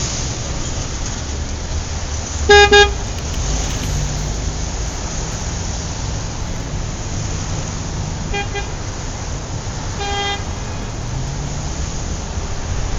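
Steady road-traffic noise with car horns sounding over it: a quick double toot about two and a half seconds in, a fainter short toot around eight seconds, and another single toot near ten seconds.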